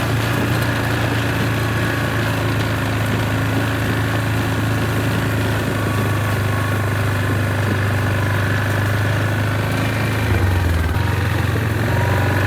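Quad bike (ATV) engine running steadily while being ridden, with a brief dip and recovery in the engine note about ten seconds in.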